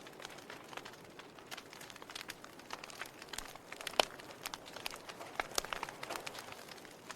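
Firewood burning in a fireplace, crackling: irregular snaps and pops over a soft hiss, with one louder pop about four seconds in.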